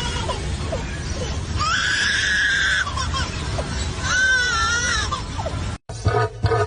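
A bird giving two long, harsh calls about a second apart, the second rising and falling in pitch, over a steady low rumble. Near the end the sound cuts off and a regular pulsing beat starts.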